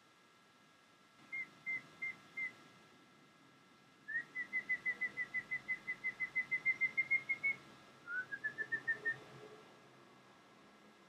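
Clear, high whistled notes: four spaced notes, then a long quick run of about two dozen notes that climbs slightly in pitch, then a shorter run that starts lower and rises.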